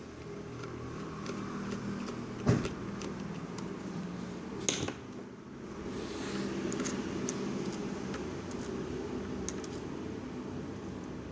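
Small handling noises: a sharp knock about two and a half seconds in, a click a couple of seconds later and scattered light ticks, over a steady low hum.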